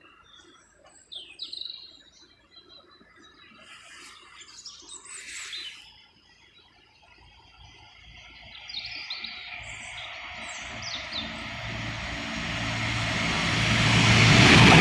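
Small birds chirping, then a Class 165 diesel multiple unit approaching. Its engine hum and rail noise grow steadily louder over the last seven seconds until it is passing close by.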